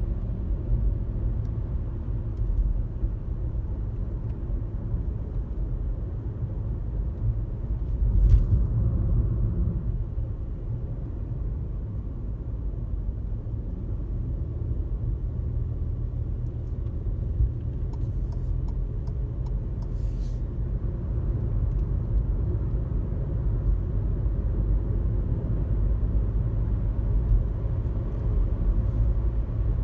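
Car driving at highway speed: a steady low rumble of road and engine noise, with a single thump about eight seconds in and a short sharp click around twenty seconds.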